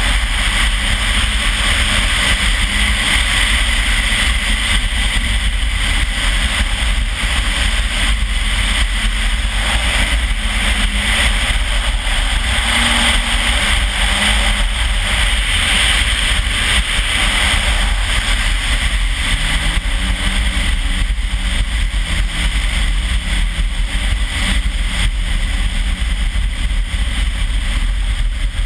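Turbocharged Toyota 3S-GTE four-cylinder engine in a RAV4 running hard at speed, mostly buried under a steady rush of wind and slush spray on the microphone. Its pitch climbs about twenty seconds in.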